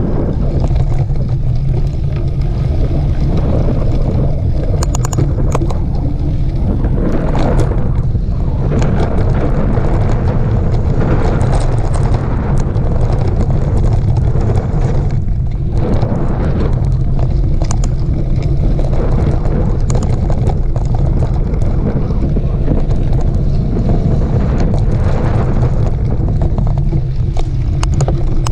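Steady rumble of wind buffeting the microphone while riding a mountain bike race course, with scattered clicks and rattles from the bike over rough trail.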